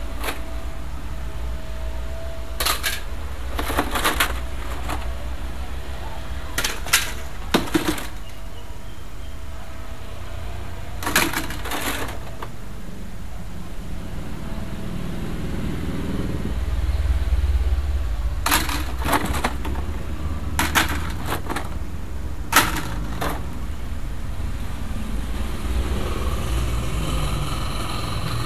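Small parts and tools being handled on a repair bench: scattered sharp clicks and light clatter, often in pairs, over a steady low background rumble that swells briefly in the middle.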